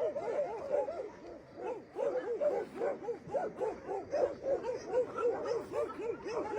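A dog whining in a long run of short cries that rise and fall in pitch, about two or three a second, with a brief break about a second and a half in.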